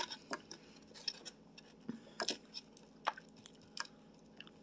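A person chewing an Indian sweet: faint, irregular mouth clicks.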